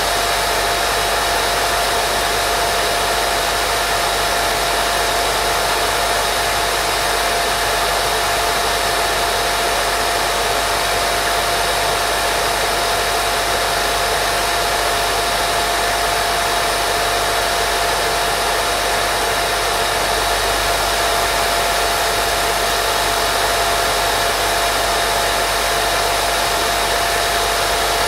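Steady white noise played as a baby sleep sound: an even, unchanging hiss with a steady whine running through it.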